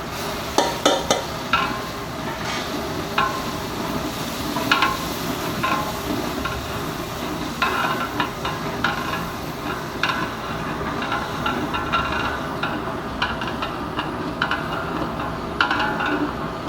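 A metal ladle stirring and scraping in a pot of frying food, with irregular clinks against the pot over a steady sizzle.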